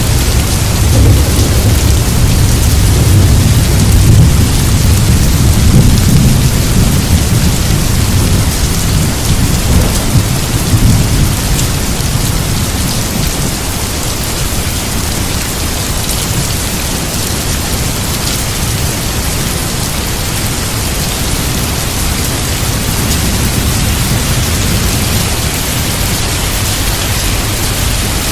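Steady heavy rain, with a low rumble of thunder through the first dozen seconds that then dies away.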